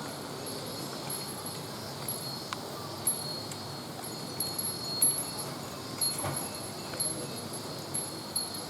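Loose monitor of an old video camera clattering as it is carried, with irregular clicks and knocks about once a second in step with walking.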